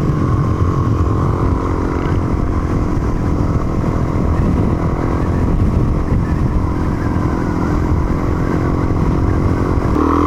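Adventure motorcycle engine running at a steady riding speed, with heavy low wind rumble on the microphone. Right at the end the engine note starts to change pitch.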